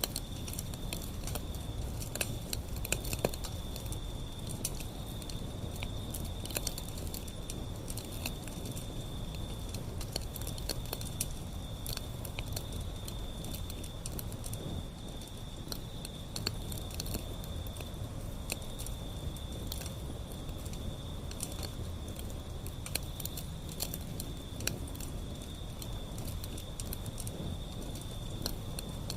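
Wood fire burning, with frequent sharp crackles and pops over a steady low rumble of flames. A thin, steady high-pitched tone runs underneath and breaks off briefly now and then.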